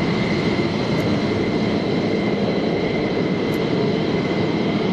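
Jet aircraft engine noise: a steady rumble with a constant high whine.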